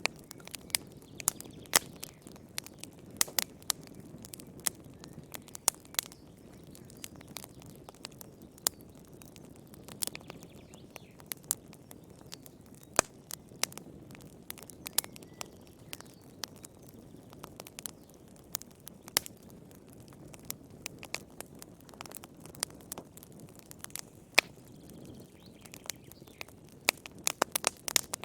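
Wood fire crackling in a fireplace: frequent irregular sharp pops and snaps over a low, steady rumble of the burning fire.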